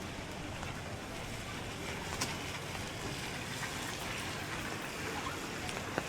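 Steady rain falling, an even hiss with a couple of sharp drip ticks, one about two seconds in and one near the end.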